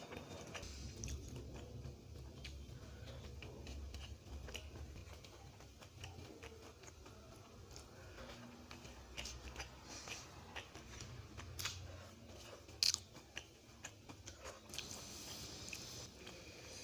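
Quiet close-up sounds of a person eating and chewing a meal of rice with radish fry and dal, with many small clicks and taps; the sharpest click comes about thirteen seconds in.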